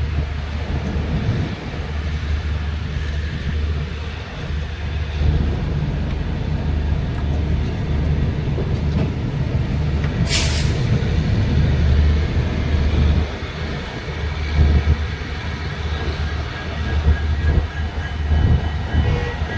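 Duronto Express train running on the rails: a steady low rumble from the moving coach, with one brief sharp hiss about halfway through.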